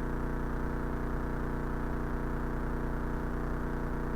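Cessna 172's piston engine and propeller running steadily at low taxi power, heard from inside the cockpit as an even, low drone.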